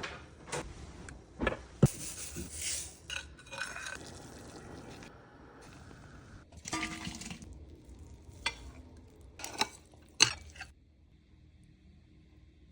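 Kitchen utensils clinking, knocking and scraping against bowls and dishes as food is handled, with sharp knocks about two seconds in and again near ten seconds; it quiets down near the end.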